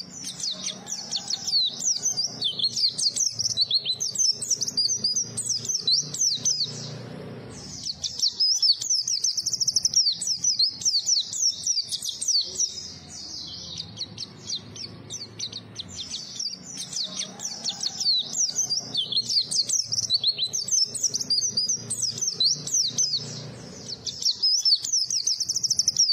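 White-eye (pleci) singing a fast, continuous twittering song of high chirps and trills, with brief pauses about seven, thirteen and twenty-four seconds in, over a faint low hum.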